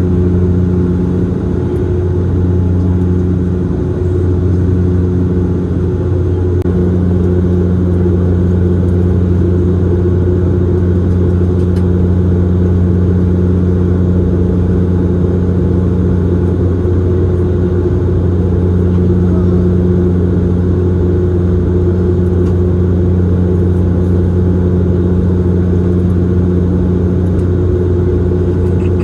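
Cabin noise of a Bombardier Dash 8-Q400 turboprop in flight: a steady propeller drone with a deep hum, the upper hum tone wavering briefly in the first few seconds.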